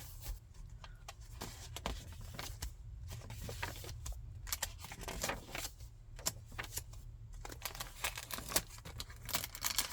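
Paper pages of a handmade junk journal being handled and turned: soft rustling with scattered small clicks and taps.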